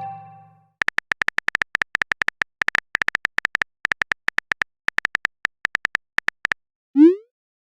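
Phone keyboard typing sound effect: a fast, uneven run of short taps lasting several seconds. It opens on the fading end of a message chime and closes with a quick rising pop, a message-sent sound.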